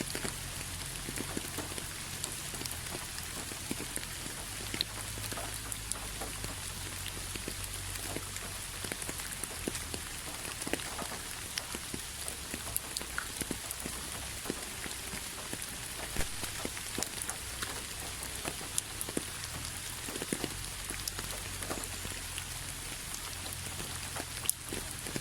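Steady rain with many separate drops pattering and ticking on a surface, over a low steady rumble.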